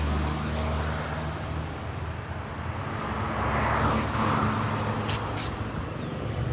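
Road traffic: a vehicle's engine hum that eases off in the first second, then a passing vehicle's noise swelling and fading about four seconds in. Two brief clicks follow a little after five seconds.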